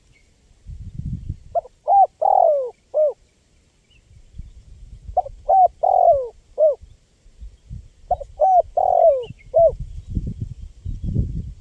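Spotted dove cooing: three calls about three seconds apart, each a phrase of four short notes in which the third is longest and falls in pitch. A low rumbling noise runs underneath and grows louder near the end.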